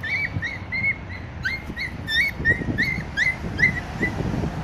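Dogs whimpering in a rapid run of short, high squeals, about three a second.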